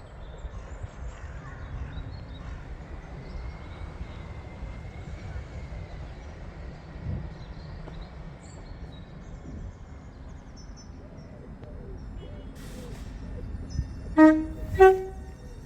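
Low steady rumble, then near the end a train's two-tone horn sounds two short blasts, a lower note followed by a higher one.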